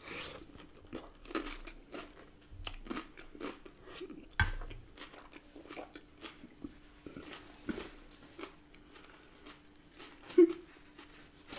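A person chewing a mouthful of salad with lettuce, cucumber and chopped battered chicken, with irregular crisp crunches, a louder crunch about four seconds in and a short louder sound near the end.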